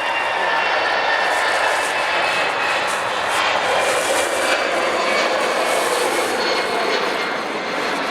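Jet airliner's engines passing close by: a loud, steady rush with a high whine that fades out in the first couple of seconds.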